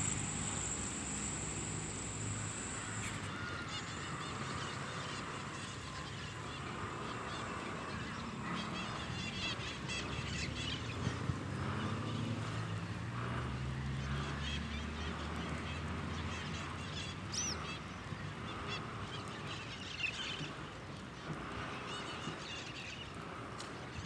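Many birds calling and chirping at a feeding spot, short scattered calls throughout, with a steady high whine for the first few seconds and a low drone in the middle.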